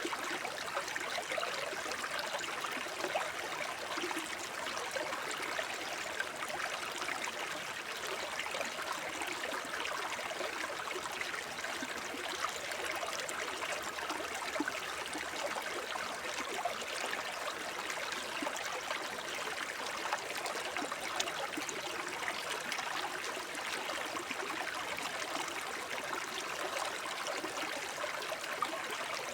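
Shallow forest stream babbling and trickling over stones: a steady rush of running water, full of small gurgles and splashes.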